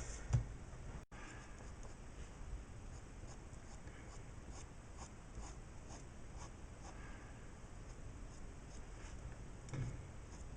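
Faint, irregular scratching of a pencil on paper in short strokes as detail is drawn in.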